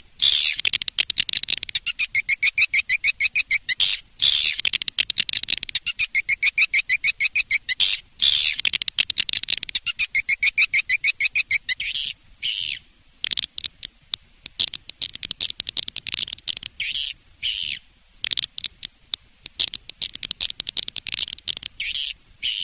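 Edible-nest swiftlets calling in rapid, high chirring trills: long runs over the first twelve seconds, then shorter bursts of chirps. This is a swiftlet lure call, played to draw birds into a nesting house.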